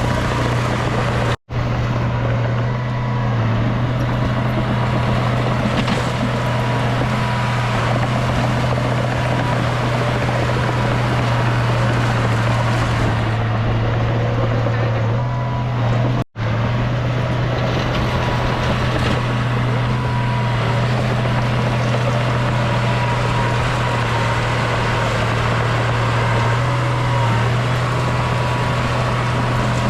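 Bulldozer's diesel engine running steadily under work, a constant low drone. The sound cuts out for an instant twice, about 1.5 seconds in and about 16 seconds in.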